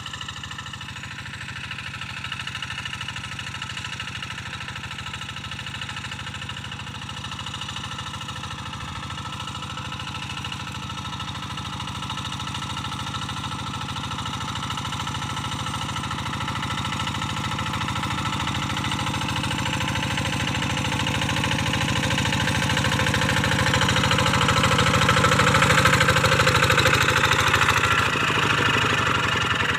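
Quick G1000 Boxer hand tractor's diesel engine running steadily while working the field, growing louder over the second half as it comes closer.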